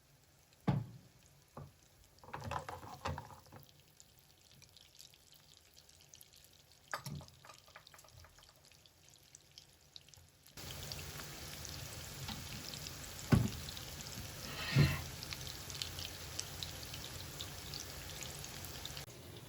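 Kitchen work sounds: a few scattered knocks and clicks of utensils or dishes, then about halfway through a steady hiss starts suddenly, with two louder knocks during it.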